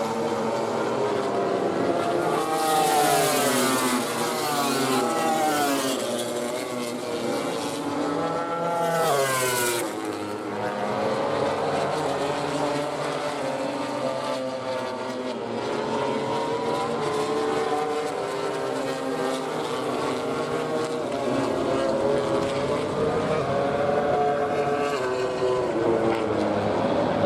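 MotoGP racing motorcycles at high revs, several engines heard at once, their pitch climbing and dropping through gear changes. There are two louder passes, about two seconds in and near the nine-second mark.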